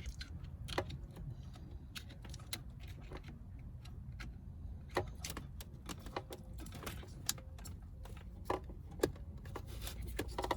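Scattered light clicks and rattles of plastic wiring-harness connectors and loose wires being handled, as a tight-fitting connector is worked into place, over a steady low hum.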